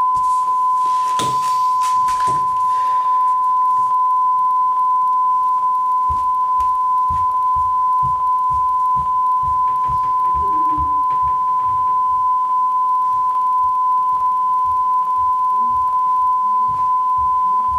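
A continuous steady beep tone from the VHS tape playing its white screen at the end of the tape, with regular clicking underneath it.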